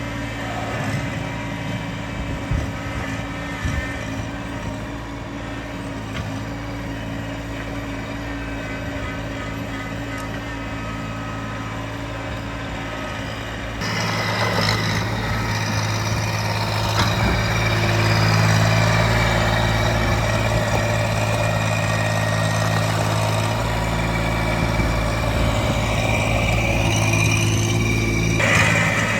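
Small tractor's engine running steadily, with a sharp step up in loudness about halfway through.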